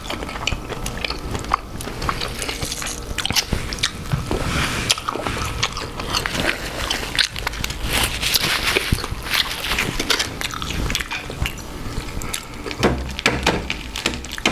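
Close-miked eating of a king crab seafood boil: biting and chewing with wet, saucy squishes and many irregular sharp clicks and crackles.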